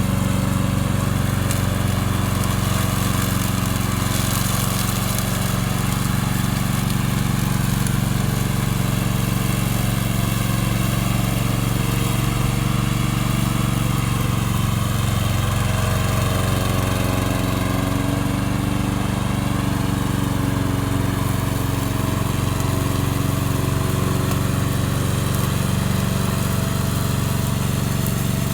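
Gasoline engine of a remote-control lawn mower running steadily at a constant speed.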